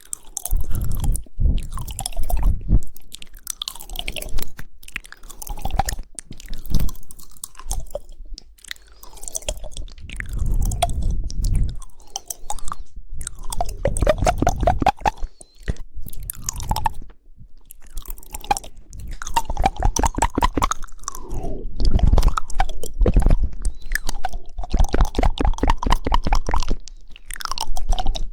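ASMR mouth sounds close to the microphone: wet tongue clicks and smacks, broken by several rapid runs of fluttering tongue clicks, the 'woodpecker' tongue-click trigger, each run lasting a second or two.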